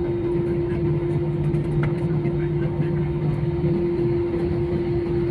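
An airliner's engines heard from inside the passenger cabin: a steady drone with a constant hum.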